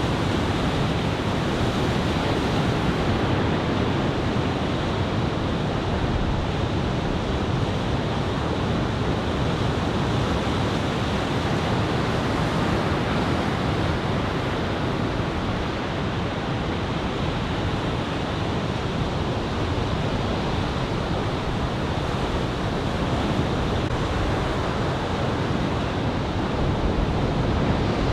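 Ocean surf from a head-high typhoon swell breaking and washing onto the beach in a steady, unbroken rush, with wind buffeting the microphone.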